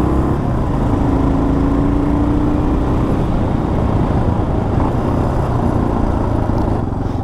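Yamaha XT 600's single-cylinder four-stroke engine running steadily while the motorcycle is ridden along the road, with road noise.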